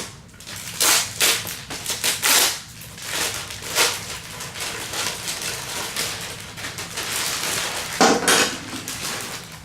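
Plastic packaging of a model rocket kit crinkling and rustling as it is opened, in a run of short bursts with a longer one about eight seconds in.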